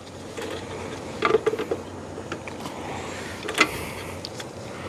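Small plastic clicks and knocks of the fuel pump assembly's parts and wiring being handled, with a cluster of knocks a little over a second in and a sharp click past halfway.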